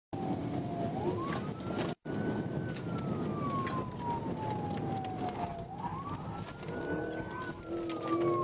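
Police siren in wail mode, its pitch sliding slowly up and down about every five seconds, over steady engine and road noise. The audio drops out for a moment about two seconds in.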